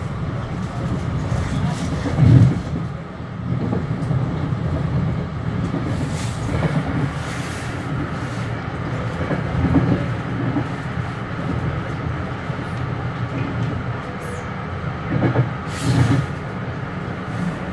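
Metro-North commuter train running along the track, heard from aboard: a steady low rumble with a few louder knocks from the wheels every few seconds.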